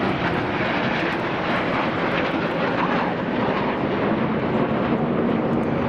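Jet noise from BAE Hawk T1 display jets flying overhead: a steady, loud rushing sound.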